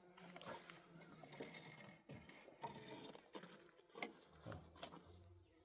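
Near silence with faint scattered small clicks and rustles.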